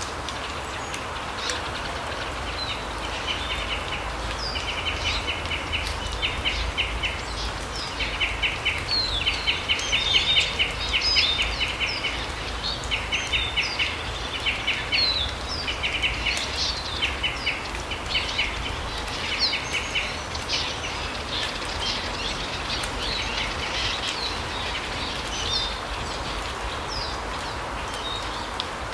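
Small forest songbirds calling, with many short, rapid trilled phrases and brief high chirps, thinning out in the second half, over a steady low background noise.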